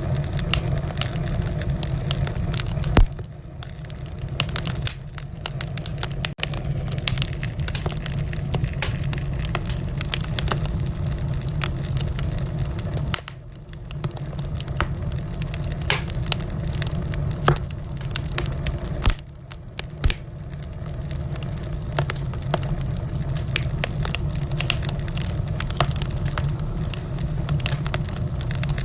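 Wood fire crackling in a fireplace: a steady low rumble under frequent sharp pops and snaps, with a louder pop about 3 seconds in and another about 20 seconds in. The rumble briefly drops away a few times.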